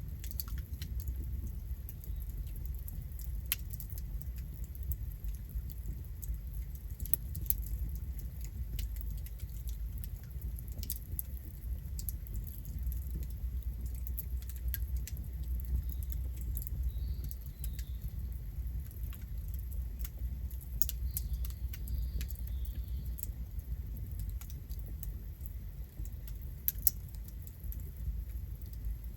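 Campfire burning: irregular sharp crackles and pops from the burning wood over a low steady rumble, with a couple of faint high chirps in the middle.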